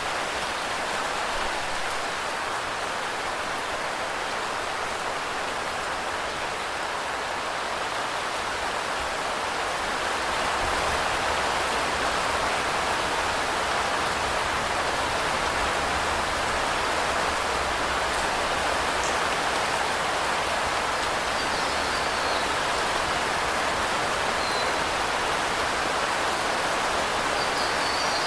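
Steady rain falling, an even hiss of pattering drops that gets slightly louder and fuller about ten seconds in. A few faint high chirps sound near the end.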